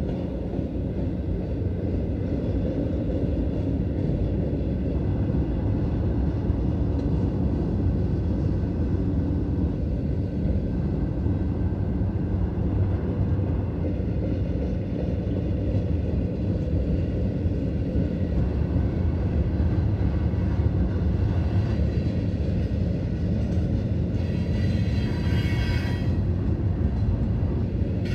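Freight train cars rolling past: a steady low rumble of wheels on rail, with a brief higher-pitched squeal near the end.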